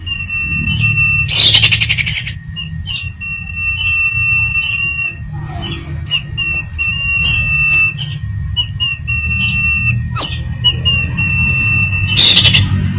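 Common iora (sirtu, cipow) calling: long, steady high whistled notes repeated with short breaks, and twice a loud harsh rasping chatter, about a second and a half in and near the end. A low steady rumble runs underneath.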